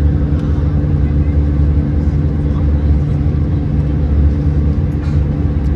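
Steady low drone of engine and airflow noise inside the cabin of an Airbus A320-214, with a constant hum and no change in pitch.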